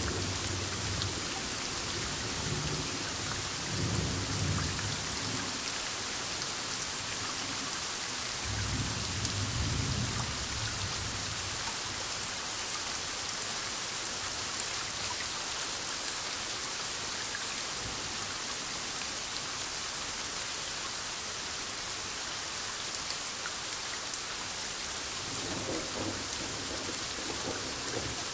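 Heavy rain falling steadily on surfaces, with rolling thunder rumbling several times: a rumble a few seconds in, another around the ninth second, and a fainter one near the end.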